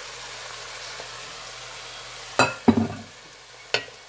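Beet strips and onions sizzling in oil in a pot, with a wooden spoon stirring and knocking against the pot a few times in the second half.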